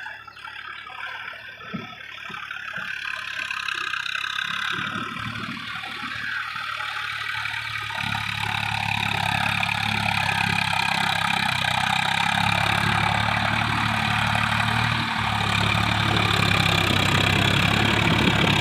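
Tractor engine: a few scattered knocks at first, then from about halfway in a steady engine run that grows gradually louder.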